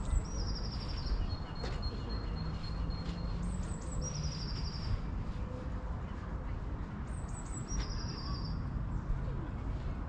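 A songbird singing, repeating the same short phrase three times, a few high notes followed by a quick trill, about every three and a half seconds. Underneath runs a steady low outdoor noise.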